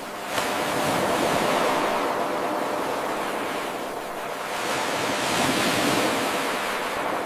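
Ocean waves washing in: surf hiss that swells twice, the first surge starting abruptly about half a second in, the second building around five seconds. The abrupt start is the splice of an 8-second wave recording looped over and over.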